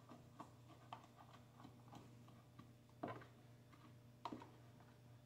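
Near silence: a steady low room hum with scattered faint clicks, and two slightly louder short knocks about three and four seconds in.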